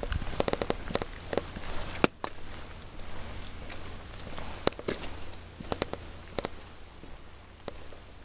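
Rain falling, a steady hiss broken by irregular sharp taps of drops landing close by, with footsteps on wet ground.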